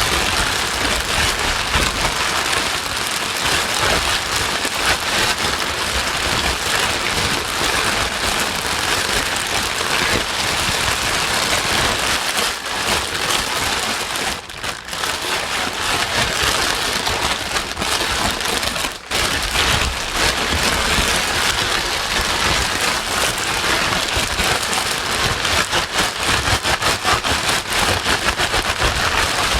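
Steady white noise that sounds like heavy rain pattering on a surface: a dense, even hiss with two brief dips around the middle.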